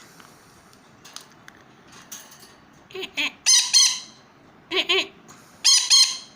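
An agitated parrot squawking harshly. The first three seconds are nearly silent, then it gives four short bursts of two or three squawks each.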